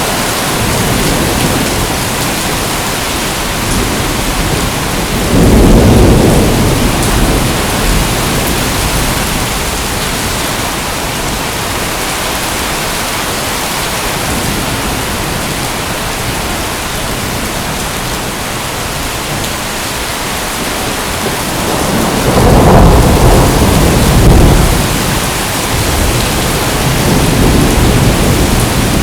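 Steady heavy rain, with thunder rumbling low about five seconds in and again after twenty seconds.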